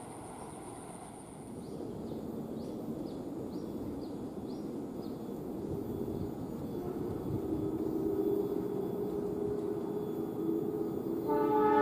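An approaching train's diesel locomotive grows steadily louder, its engine tones emerging over the rumble of the wheels. The locomotive's horn starts sounding near the end.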